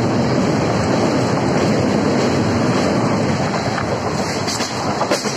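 Steady rush of a moving passenger train's running noise mixed with wind buffeting the microphone at an open carriage door, with a couple of brief knocks near the end.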